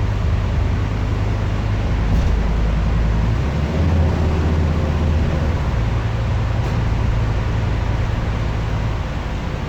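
Scania N230UD double-decker bus engine running steadily over road noise, its note shifting about halfway through.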